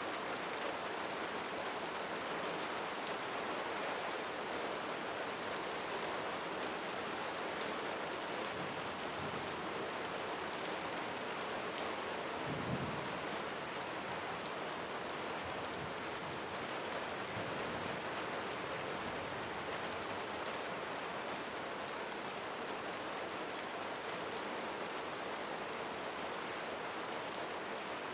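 Steady rain falling on leaves, with scattered single drops ticking, and a brief low rumble about halfway through.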